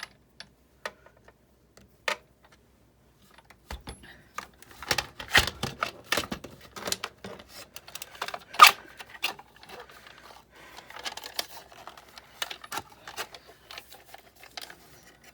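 Small parts of a die-cutting machine clicking, knocking and rattling as it is handled and taken apart. A few scattered clicks come first, then a busy stretch of clattering starts about four seconds in, with one loud knock near the middle, before it settles into lighter rattling.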